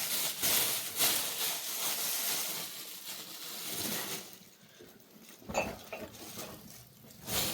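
Rustling and crinkling as material is handled and pulled tight, easing off after about four seconds, followed by a few light clicks and knocks near the end.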